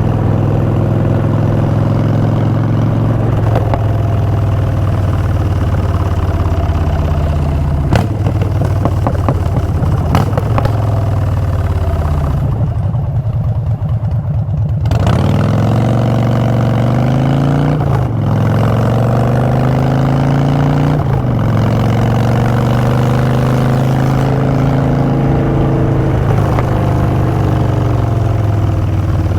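2016 Harley-Davidson Street Bob's V-twin running through Vance & Hines Short Shots pipes while riding. The pitch climbs and drops back at several gear changes. About halfway through it slows to a low, quieter idle-like pitch, then pulls away again, rising through the gears.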